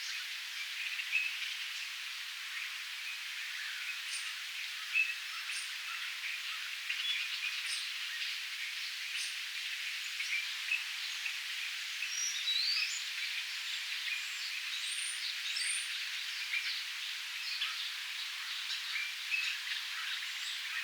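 Several small birds chirping and calling around a bird feeder, with short high chirps scattered throughout and a few quick whistled sweeps in the middle, over a steady outdoor hiss.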